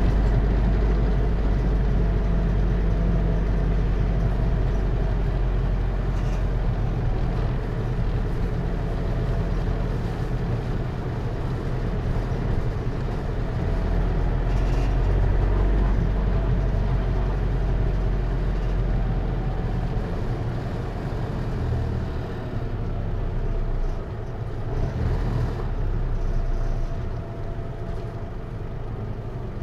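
Hino Liesse RX4JFEA microbus's J05C diesel engine running under way with its automatic transmission, a steady low drone heard from inside the passenger cabin. The low drone eases off and turns unsteady about 22 seconds in.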